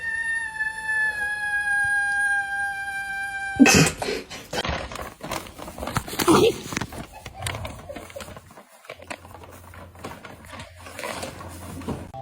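An animal's long, steady, high-pitched call, held for about three and a half seconds and falling slightly in pitch, then cut off by a burst of clattering and knocking that goes on irregularly.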